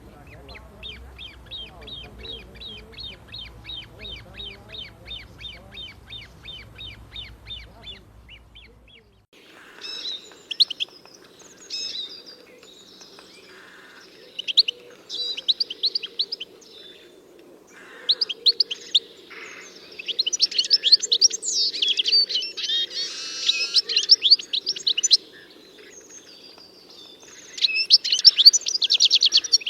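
Birds singing. First a fast series of repeated high notes, about four a second, then after a short break about nine seconds in, loud, rapid trilling song phrases in spells, densest in the last third.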